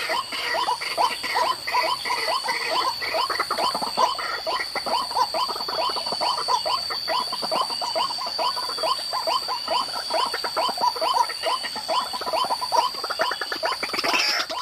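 White-breasted waterhen calling: a fast, even run of short repeated notes, about four a second, going on without a break.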